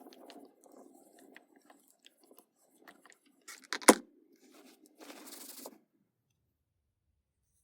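Handling of a clothes iron over a damp cloth on a wooden workpiece: soft rustling and small clicks, a sharp knock just under four seconds in, and two short hissing rustles, the sound of steaming out a dent in the wood.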